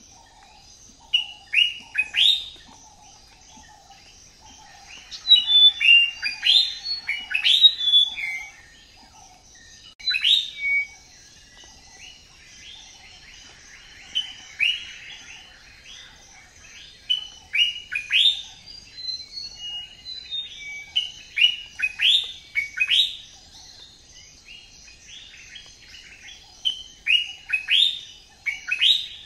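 Birds chirping and calling in quick clusters of short, sharp rising and falling notes, with a steady high buzz behind them.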